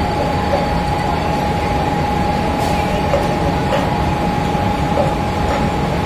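Mumbai suburban local train running slowly through a station, heard from aboard: a steady rumble and running noise with a constant whine held throughout.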